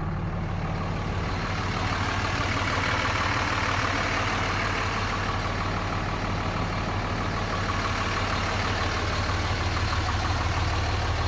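A 2004 Dodge Ram 2500's 5.9-litre inline-six Cummins turbo diesel idling steadily.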